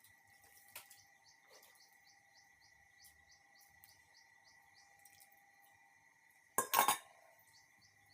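Faint high bird chirps repeating about four times a second over a steady faint hum, then a brief loud clatter of a utensil against a plate about six and a half seconds in.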